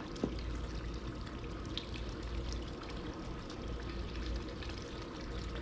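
Steady background noise of a warehouse store with a few faint clicks and knocks.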